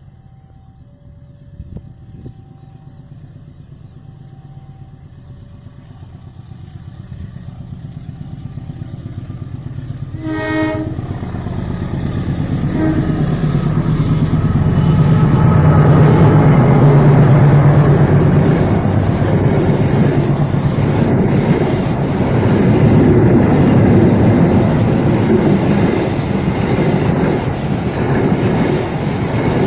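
KAI CC206 diesel-electric locomotive hauling a train, growing steadily louder as it approaches. It gives a short horn blast about a third of the way in, then passes close with a loud engine rumble and wheels clattering over the rail joints.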